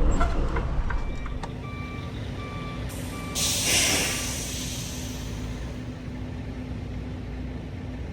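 Semi truck: a short series of electronic warning beeps, then a sudden burst of air hiss from the air brakes that fades over about a second, with the engine idling steadily underneath.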